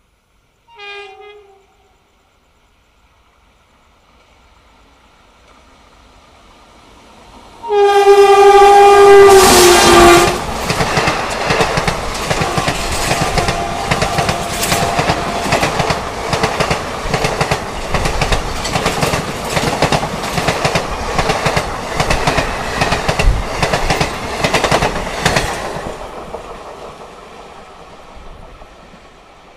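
An Indian Railways express train sounds its horn: first a short, faint blast, then a long, loud blast whose pitch drops as the locomotive passes close by. The coaches then rush past with a rapid, rhythmic clatter of wheels over the rail joints, which fades away near the end.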